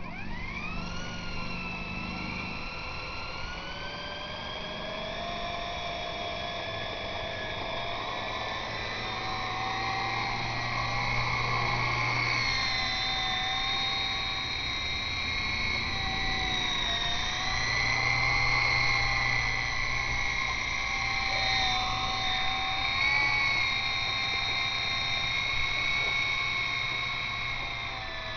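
E-flite Blade CX2 micro RC helicopter's electric motors and coaxial rotors whining as they spool up over the first couple of seconds, then running steadily with the pitch wavering up and down as the throttle is worked against the wind.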